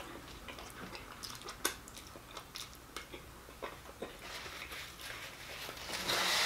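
Close-miked chewing of a mouthful of fried fish with tartar sauce: scattered small wet mouth clicks and soft crunches. A louder hiss comes near the end.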